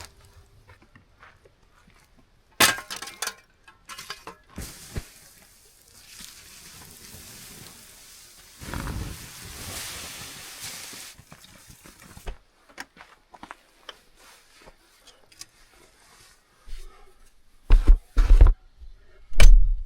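A campfire being doused, with a steady hiss lasting several seconds in the middle, among scattered clinks and knocks. Then a few heavy thumps come near the end.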